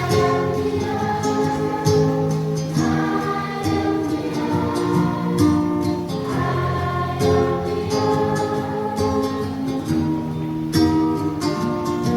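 A choir singing with strummed guitar accompaniment, the voices holding long notes over a steady strum.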